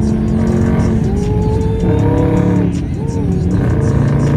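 Exhaust of a 2020 Dodge Charger Scat Pack's 6.4-litre HEMI V8 with the mid mufflers deleted, heard through the open windows while driving on the highway. The engine note holds steady, dips about a second in, climbs, dips again and climbs once more near the end, as with gear changes under acceleration.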